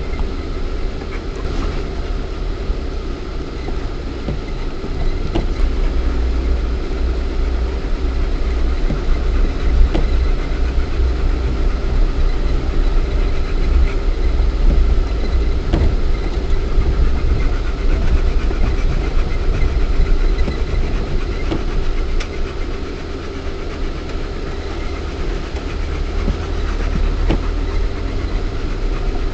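Lada Niva 1.7i's four-cylinder petrol engine running steadily at low revs, heard from inside the cabin, with a few faint clicks and knocks.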